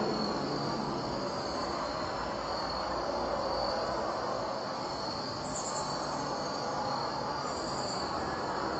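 Outdoor night insects, crickets, chirping in a regular pulse about once a second, with a few higher insect trills, over a continuous broad rumble.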